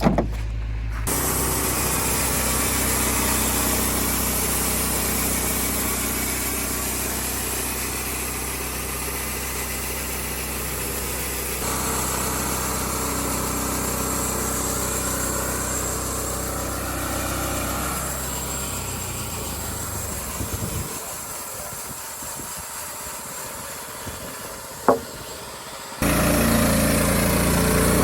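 An engine running at a steady idle. The sound shifts abruptly several times, drops to a quieter stretch with one sharp knock, then a louder engine sound starts suddenly near the end.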